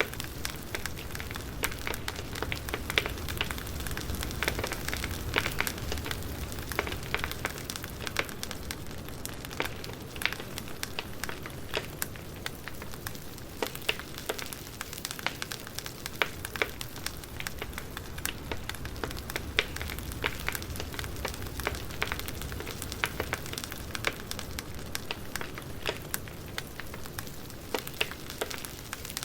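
Wood fire crackling, with frequent sharp irregular pops and snaps over a soft low rumble of the burning logs.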